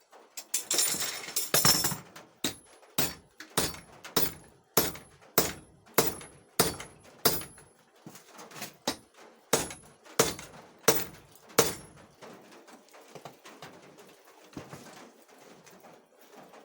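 Hammer blows on hot steel at the anvil while forging a weld chipping hammer: about fifteen sharp, evenly paced strikes, a little under two a second, many with a high ring from the anvil. They stop about two-thirds of the way through. A short burst of harsh noise comes before the first blow.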